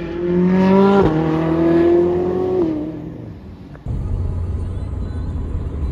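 Ferrari sports car accelerating past, its engine note climbing with a quick upshift about a second in, then dropping in pitch and fading as it lifts off and moves away. Near the end a steady low engine rumble takes over.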